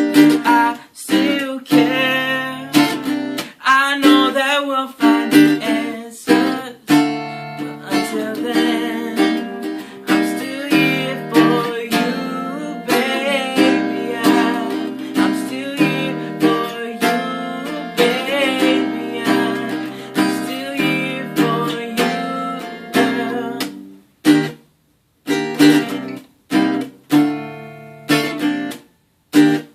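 Acoustic guitar playing strummed and picked chords to close out a song. The playing breaks off in several short gaps in the last few seconds.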